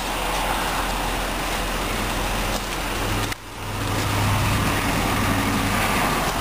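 The 3.5-litre V6 of a 2009 Dodge Journey SXT idling steadily, heard with wind and outdoor noise on the microphone. The sound breaks off briefly a little past halfway, then returns with a stronger low hum.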